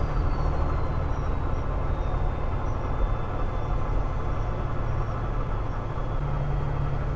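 Peterbilt 389 glider semi truck running down the road: a steady low engine drone under road noise, the engine note growing stronger about six seconds in.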